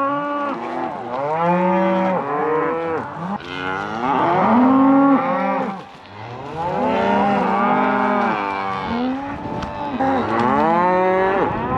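A herd of cattle mooing and bawling, several animals calling over one another, one long call after another, with a short lull about six seconds in.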